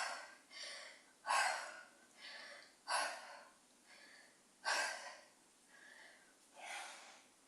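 A woman breathing hard from exertion: five sharp, airy breaths roughly every second and a half, with softer breaths between them.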